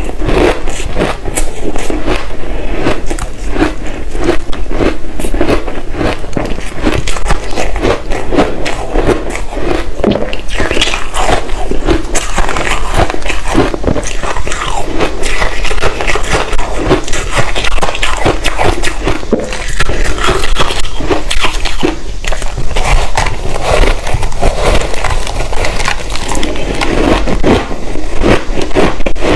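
Close-miked biting and chewing of large chunks of reshaped ice dusted with matcha powder: a dense, continuous run of crisp, irregular cracks and crunches.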